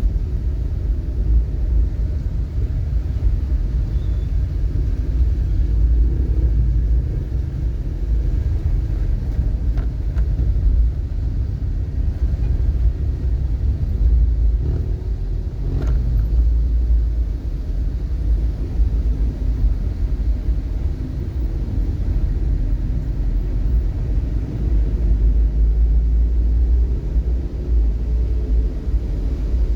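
Steady low rumble of a vehicle on the move, road and running noise heard from on board, with a couple of faint clicks.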